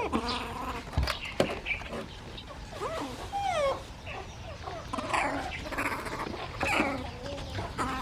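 Squeaky calls of baby monkeys and baby birds: many short squeals and chirps that slide down in pitch, overlapping one another, some high and thin and some lower.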